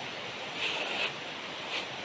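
Heavy rain falling steadily in the jungle, with a brief sharper hiss about half a second in and a shorter one near the end.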